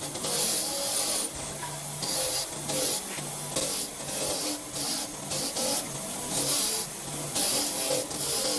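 Hand-worked abrasive strokes on a metal engine part, rubbing back and forth with a rasping, scraping sound, about one to two strokes a second.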